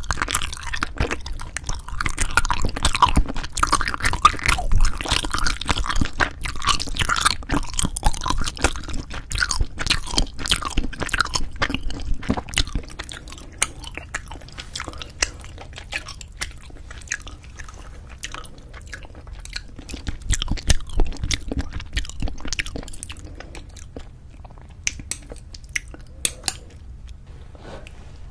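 Close-miked chewing of braised spicy chicken with cheese (jjimdak), with many wet clicks and mouth noises. It is busy and loud for roughly the first half, then sparser and quieter, with a brief louder flurry about two-thirds of the way through.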